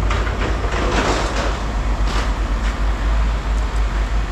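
A vehicle engine runs with a steady low rumble. Over it come noisy scraping and clattering of scrap metal being handled during the first two to three seconds.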